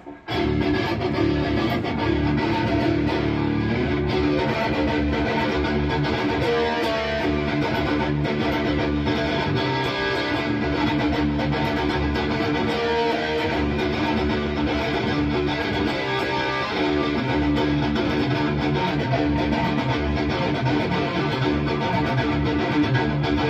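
Electric guitar played through a Bogner Uberschall high-gain preamp module, riffing continuously with sharp picked attacks.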